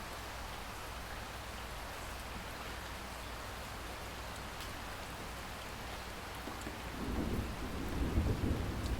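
Steady rain falling, with a low rumble of thunder starting about seven seconds in and building.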